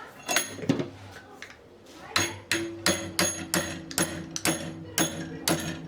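Hammer striking metal: a few knocks, then from about two seconds in a steady run of blows, about three a second, each leaving a short metallic ring.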